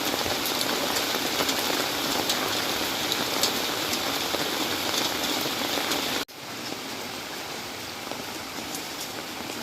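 Steady rain falling, with the patter of many fine drops. About six seconds in it breaks off for an instant and goes on at a quieter level.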